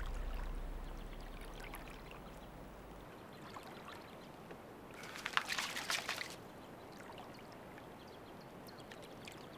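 Shallow water sloshing and trickling around struggling animals, a lioness and a roan antelope, with a short burst of splashing about five seconds in.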